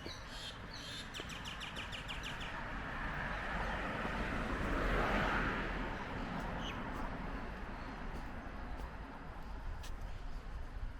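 Small birds chirping in a quick run of calls for the first couple of seconds, then a passing vehicle's swell of traffic noise that builds to its loudest about five seconds in and fades away, with a few more chirps after.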